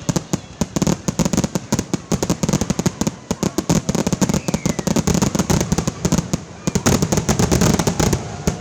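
Fireworks going off in a rapid barrage of loud bangs and crackles, many reports a second, densest near the end.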